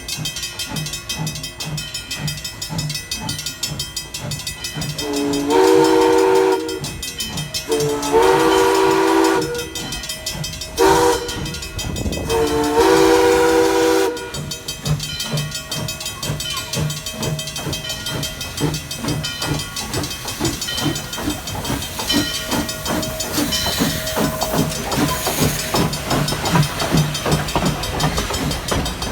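Steam locomotive running with a steady rhythm of exhaust beats and hiss. Its chime-like steam whistle blows four blasts, long, long, short, long: the standard signal for a level crossing.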